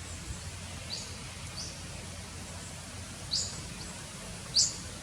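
A small bird chirping: short, high, rising chirps, a few spread out, then two louder ones near the end.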